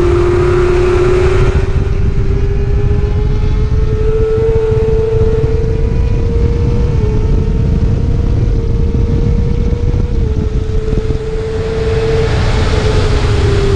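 Racing motorcycle engine held at high revs, its pitch slowly climbing with a couple of small dips, under heavy wind rush. The revs fall off near the end.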